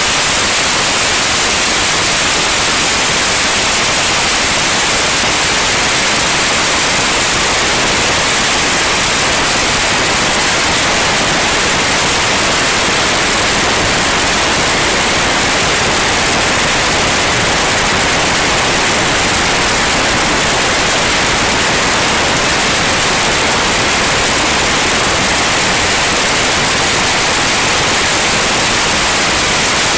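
Steady, loud rushing hiss of cabin noise in a small airplane in flight, even and unchanging, heaviest in the high range.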